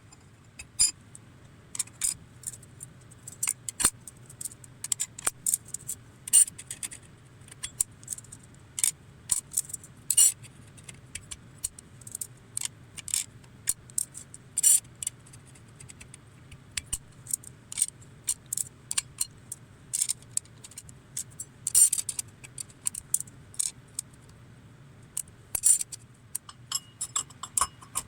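Irregular light metallic clinks and taps of tools and engine parts being handled in hand assembly of an IZH Jupiter 5 motorcycle engine, sometimes several in quick succession, over a faint low hum.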